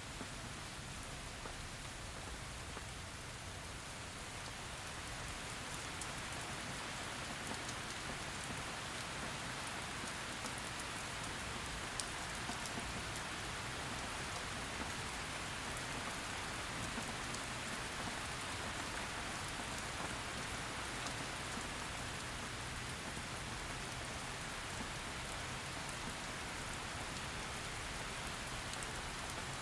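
Heavy rain falling steadily, a dense even patter of drops on a hard surface with scattered sharper drop ticks. It swells slightly about five seconds in.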